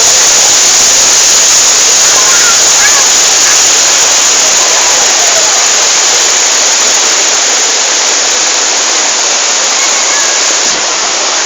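Waterfall: a loud, steady rush of falling water, with faint voices in the background.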